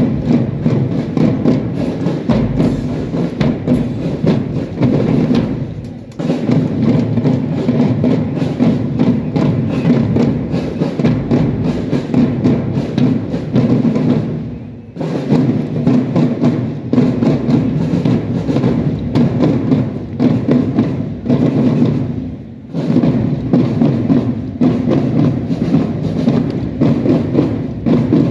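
Marching drum band playing a drum-led piece, a dense rhythm of snare, tenor and bass drum strokes that pauses briefly about every eight seconds between phrases.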